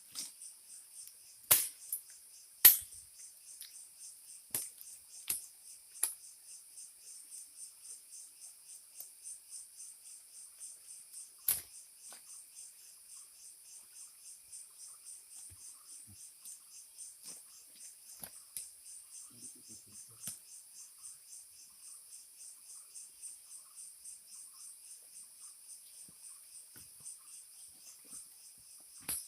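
Forest insects trilling in a continuous rapid, high-pitched pulsing chorus. A handful of sharp clicks or knocks cut through it, two loud ones within the first three seconds and another near the middle.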